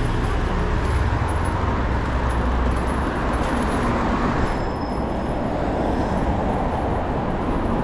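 City street traffic noise: a steady rumble of cars on the road.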